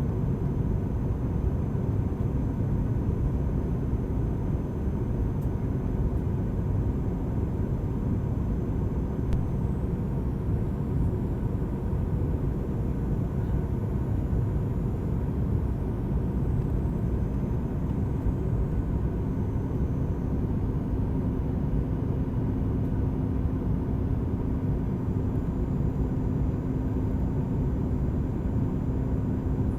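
Steady cabin rumble inside a Boeing 737 MAX 8 in flight: engine and airflow noise heard from a forward window seat. About two-thirds of the way through, a steady low hum joins in and holds.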